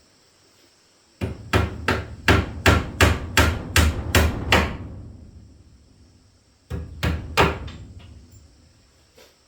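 Hammer blows on wood, a quick run of about ten strikes at roughly three a second, then a pause and a shorter run of three or four more.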